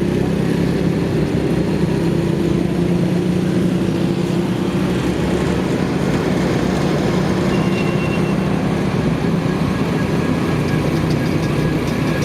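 Motorcycle engine running steadily under way, with a constant rush of road and wind noise.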